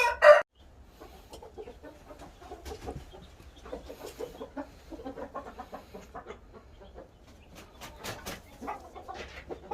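Chickens clucking, with two short loud bursts right at the start followed by quieter, choppy clucking.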